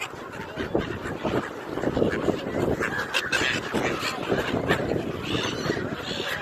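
A large flock of gulls calling, many short, harsh calls overlapping at once in a continuous clamour.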